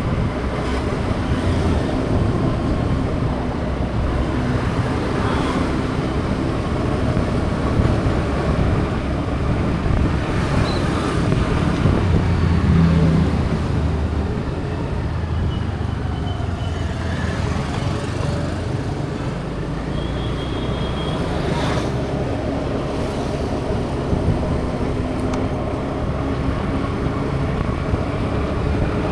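Steady road traffic noise: vehicle engines running and tyres on the road, with a constant low rumble and a few brief higher tones over it.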